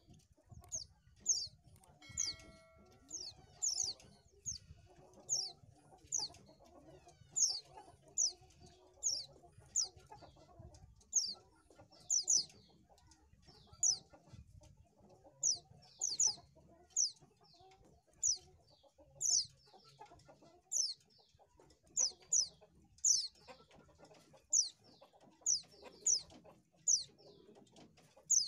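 White-eye (pleci) bird calling: short, high, downward-sweeping chirps, often in quick pairs or triplets, repeated about once a second.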